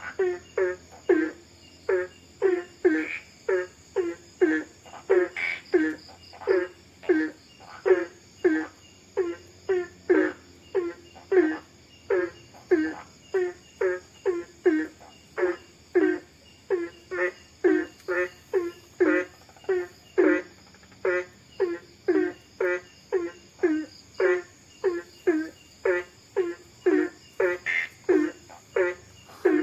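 A frog calling over and over in short, evenly spaced calls, about two a second, with a steady high chirring of insects behind it.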